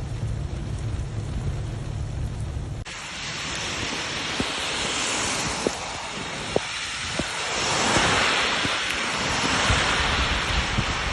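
Wind buffeting the microphone with a low rumble, then, after a cut about three seconds in, a loud steady rushing of rainstorm water with scattered sharp taps of drops.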